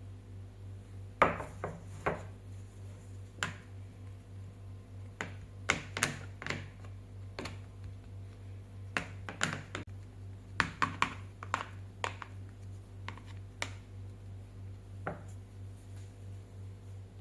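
Irregular light clicks and taps of kitchen utensils against dishes and containers, a few sharper than the rest, over a steady low hum.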